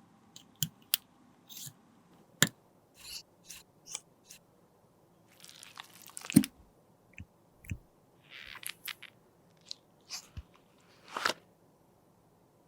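About a dozen small, separate clicks, taps and short crunchy scrapes of hands handling a lipstick and its case during a repair. The loudest are a sharp click about two and a half seconds in and a crunchy scrape a little after six seconds.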